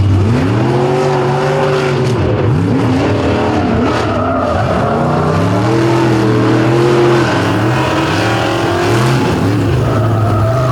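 Two race trucks' engines revving hard as they launch and race side by side, their pitch repeatedly climbing and dropping with throttle and gear changes.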